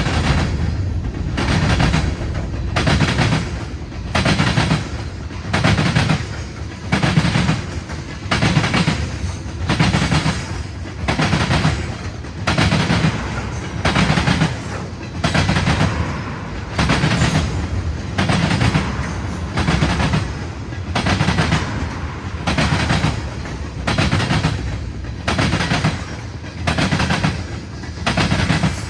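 Freight train cars rolling past, their wheels clattering over rail joints or track work in a steady rhythm of about one sharp bang a second.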